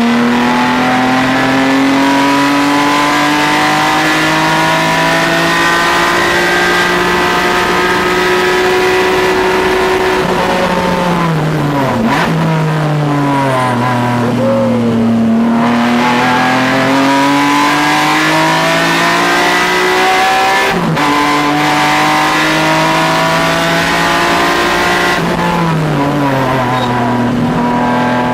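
Car engine under hard driving on a track lap: the pitch climbs steadily under acceleration, falls away in steps under braking and downshifts about ten to twelve seconds in, then climbs again. A sudden drop a little past twenty seconds marks an upshift, and the pitch falls again near the end as the car slows.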